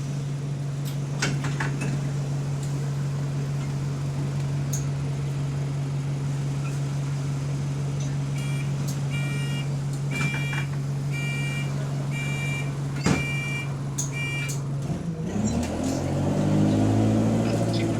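Single-deck bus engine idling with a steady low drone. The bus has an exhaust leak. About halfway through, the door warning beeps about once a second for six seconds, with a knock as the doors close. Near the end the engine revs up as the bus pulls away.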